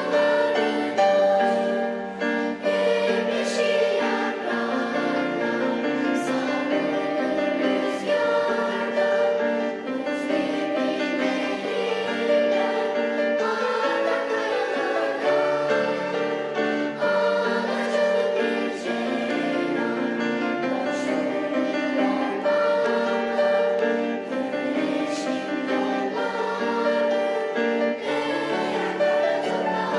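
Children's choir singing in several parts, holding long notes in harmony that change every second or so.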